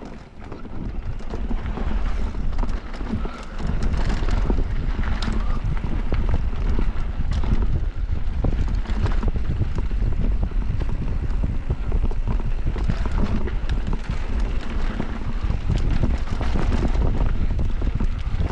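Wind buffeting the microphone of a mountain biker riding fast downhill, over a steady rumble with frequent short rattles and knocks from the bike on rough trail. The noise builds over the first few seconds and then stays loud.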